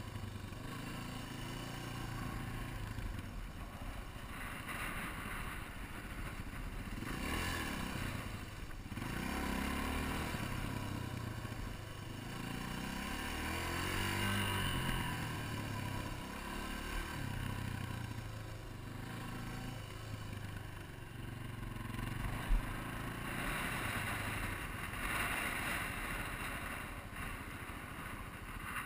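Yamaha TT-R250 trail bike's single-cylinder four-stroke engine running under the rider, its pitch rising and falling with the throttle, with one slow rev up and back down in the middle. A brief sharp knock a little past two-thirds in.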